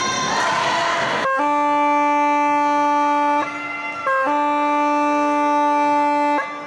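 Basketball scoreboard horn: a steady, buzzing electronic blast held about two seconds, a short break at a different pitch, then held again for about two seconds before cutting off sharply.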